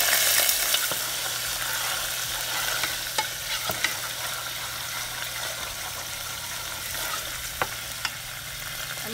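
Ginger-garlic paste sizzling in hot oil with curry leaves in a saucepan as it is stirred with a wooden spoon. The sizzle is loudest at first and gradually eases, with a few light knocks.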